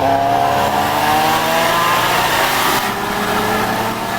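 A vehicle engine accelerating hard, its pitch climbing steadily, then dropping briefly about three seconds in as it shifts up a gear, and climbing again.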